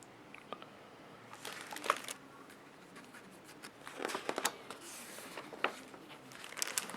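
Soft paper rustling and crinkling in several short bursts, about a second and a half in, again around four seconds, and near the end: a book's pages being handled and turned.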